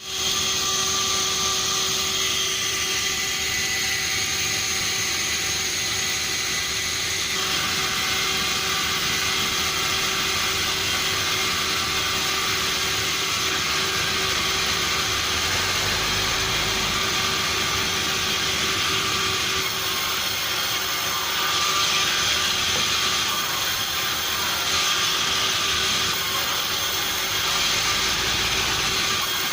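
Sawmill machinery running steadily, a constant mechanical drone with a fixed high whine over a hissing noise and no distinct cuts or impacts.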